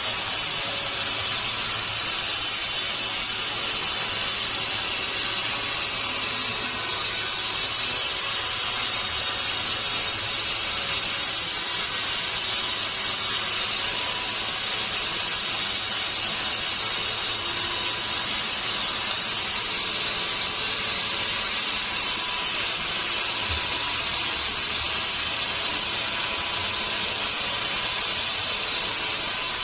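Sawmill machinery running, a steady, unbroken hiss-like noise with a faint steady whine.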